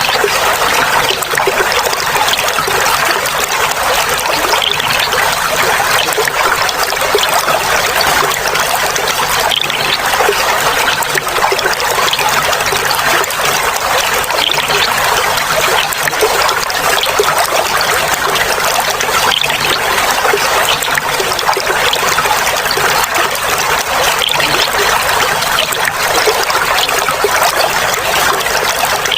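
Clear flowing water trickling and babbling steadily, an unbroken rush without pauses.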